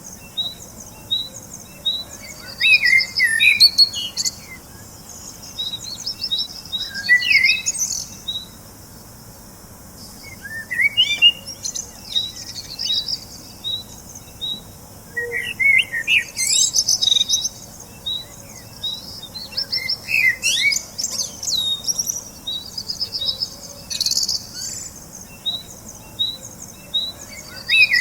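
Several songbirds singing: one repeats a short high chirp about twice a second, while others add varied warbling phrases and high trills every few seconds.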